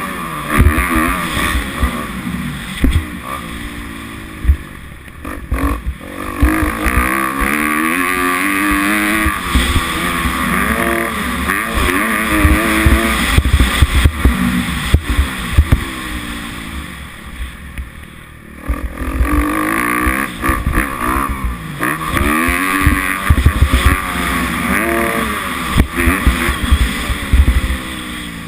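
Kawasaki 250F motocross bike's four-stroke single-cylinder engine revving up and down over and over as the rider accelerates, shifts and rolls off the throttle, dropping back twice. Heavy wind buffeting on the microphone underneath.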